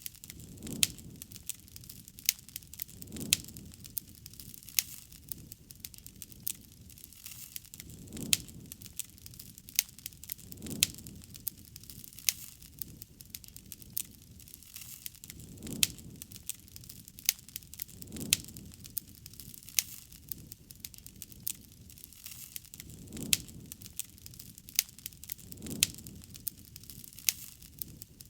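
Wood campfire crackling, with frequent sharp pops and snaps. A low rushing sound swells and fades every few seconds.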